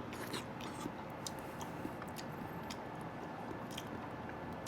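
A person chewing a mouthful of microwave-cooked scrambled eggs, with soft scattered mouth clicks over a steady low room hum.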